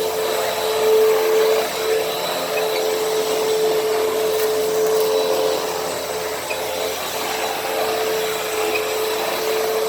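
Hoover WindTunnel T-Series upright vacuum cleaner running steadily: a constant motor whine over the rush of air.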